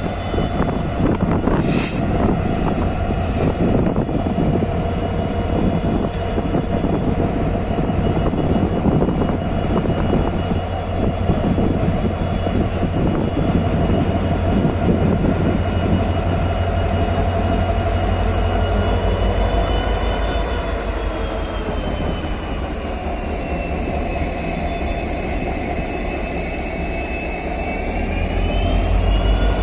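Railway train running on the CRS inspection special: steady engine note over a low rumble, the pitch sinking about two-thirds of the way through and climbing again near the end.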